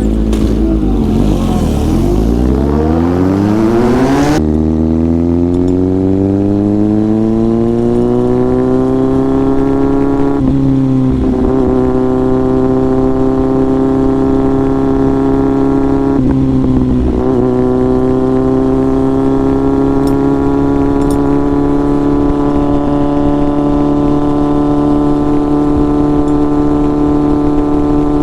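Inline-four motorcycle engine under way, revs climbing through the gears with gear changes about 4, 10 and 17 seconds in, then holding a steady cruise.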